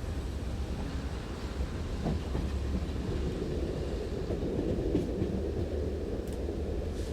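Diesel train running at a station: a steady low engine drone with a dense rumble, and a few faint clicks in the second half.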